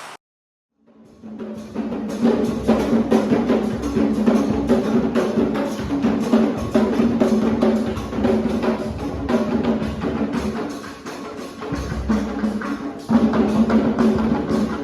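Percussion music: a fast, dense beat of drums and sharp wood-block-like strikes over a steady low pitched layer. It fades in over about a second after a brief silence.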